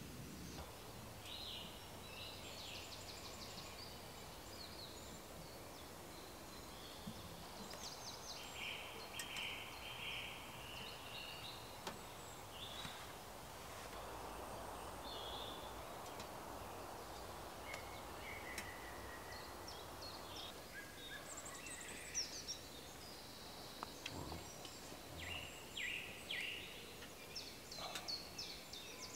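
Faint woodland birdsong: scattered short chirps and trills from several birds over a soft, steady background hiss.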